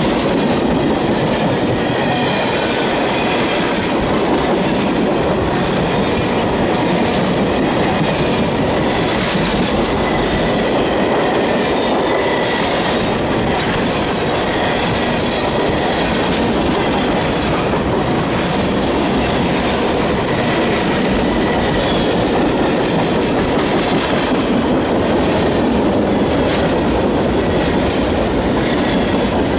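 Train cars rolling steadily past on the rails, with a faint high squeal from the wheels that comes and goes.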